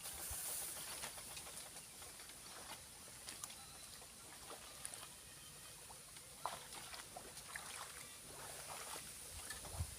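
Faint trickling and small splashes of shallow water, with scattered light ticks and clicks.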